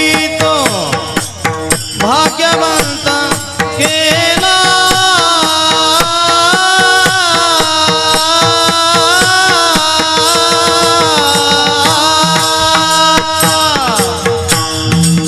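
Devotional kirtan music: a long melody line that slides between pitches and then holds wavering notes, over a steady tabla beat.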